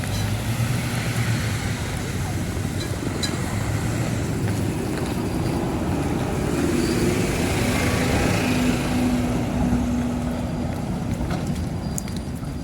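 A motor vehicle's engine running steadily, its pitch shifting midway, over street noise and faint background voices.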